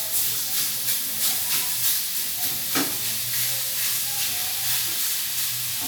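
Food sizzling in a hot pan, a steady hiss, with short regular scraping strokes as it is stirred.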